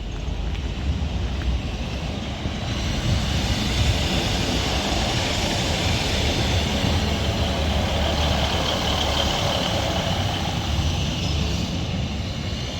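Northern Class 156 diesel multiple unit passing through the station without stopping: a steady rumble of engine and wheels on the rails that swells about three seconds in and eases off near the end.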